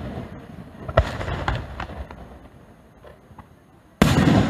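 Aerial firework shells bursting. The echoing rumble of one burst dies away, a sharper bang about a second in is followed by a few scattered pops, and a loud boom breaks near the end.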